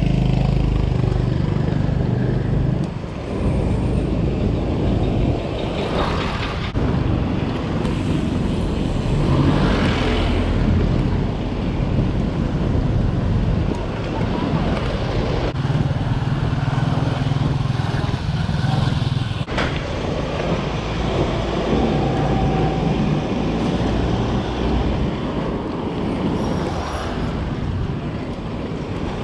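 Road traffic heard from a bicycle: motor vehicles running past in a steady rumble, with a few louder swells as vehicles go by.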